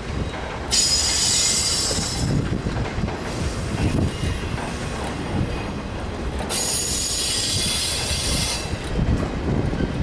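Freight cars of a Union Pacific train rolling past with a steady rumble and clicking of wheels over rail joints. Twice the steel wheels squeal high and shrill for about two seconds: once near the start and again in the second half.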